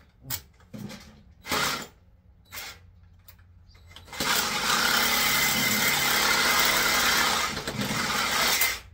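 A few metal knocks and clanks, then a handheld power tool runs steadily and loudly for about four and a half seconds before stopping, working on the transformer's bolts.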